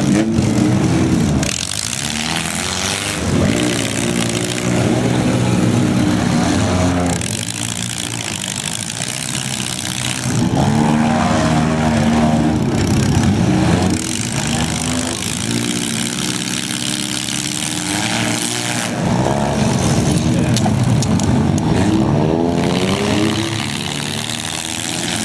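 Engines of several small demolition-derby cars revving hard and easing off over and over, their pitch rising and falling, with the occasional bang of cars ramming each other.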